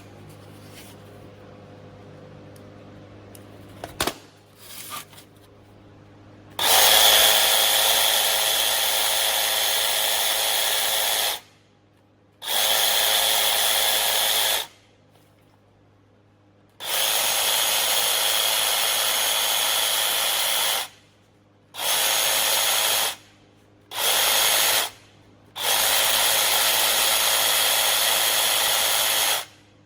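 Cordless jig saw motor switched on and off six times in runs of one to several seconds, each with a steady high whine that starts and stops abruptly. A faint low hum and a couple of clicks come before the first run.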